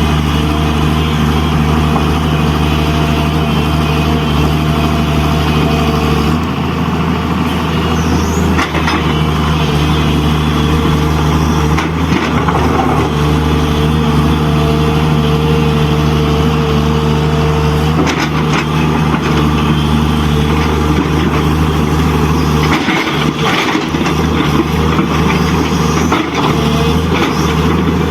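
RC construction truck running with a steady truck-engine drone whose pitch and loudness shift a few times as the models move.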